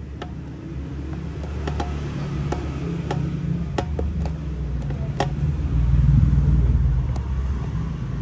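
A low vehicle engine rumble, as of a vehicle passing by, swells to its loudest about six seconds in and then eases off. Scattered light clicks and taps sound over it.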